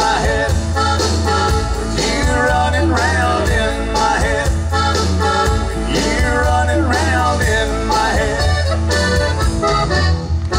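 Live Tex-Mex band playing an instrumental passage: an accordion carrying the lead over a steady bass and drum beat.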